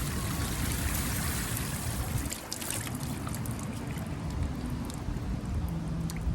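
Sea waves washing up on a sandy beach: a steady rush of water with a low rumble and a few faint clicks.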